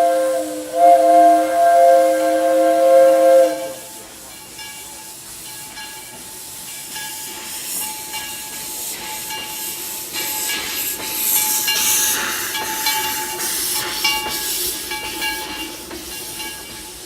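Steam locomotive whistle sounding a chord of several notes, with a brief break about half a second in. It cuts off about three and a half seconds in. Steam then keeps hissing from the locomotive, with a fine rapid crackle that grows louder and fades again.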